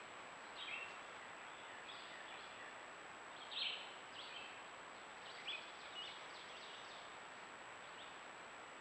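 Wild birds calling outdoors: short chirps every second or so, the clearest about three and a half seconds in, over a steady hiss and a thin, steady high tone.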